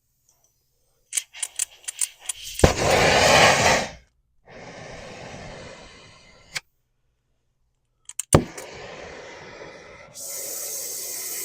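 Oxy-acetylene torch with a welding tip: a few clicks, then a sudden loud rush of gas and flame, followed by steady hissing that grows louder near the end, as it is lit to heat a seized axle nut.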